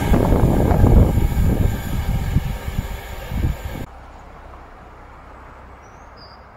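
Freight train hopper wagons rolling past, their wheels clattering over the rail joints, the rumble fading as the train draws away. The sound cuts off abruptly just under four seconds in, leaving a quiet steady background with two faint high chirps near the end.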